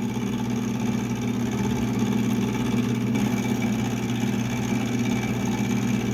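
Milling machine running with its spindle turning, a steady low motor hum, as the end mill is brought up to just skim away a scribe line.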